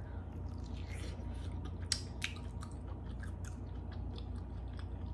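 A person biting into and chewing corn on the cob close to the microphone: wet chewing with small crunchy clicks, a couple of sharper ones about two seconds in, over a steady low hum.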